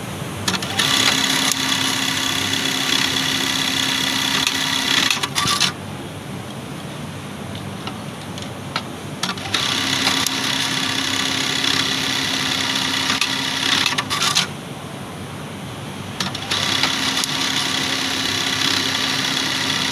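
Juki automatic buttonhole sewing machine running three stitching cycles of about five seconds each, with short quieter pauses between them.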